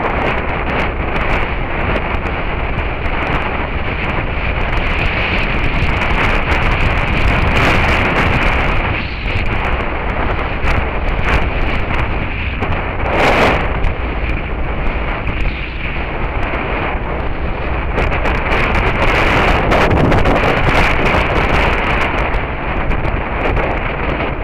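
Heavy wind buffeting on the microphone of a camera mounted on a moving Suzuki SV650S motorcycle: a dense, steady rush that overwhelms the engine sound.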